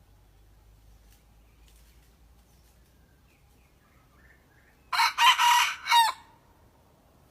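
Red junglefowl rooster crowing once, a short clipped crow of about a second, from a young bird learning to crow.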